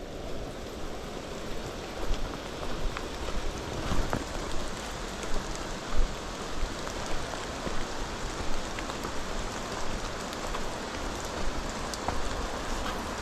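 Steady rain falling, with many individual drops ticking sharply close by over an even hiss, and an uneven low rumble underneath.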